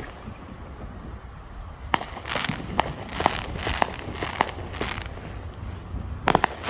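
Fireworks going off: after a quieter start, a string of sharp bangs about two a second for some three seconds, then two loud bangs in quick succession near the end.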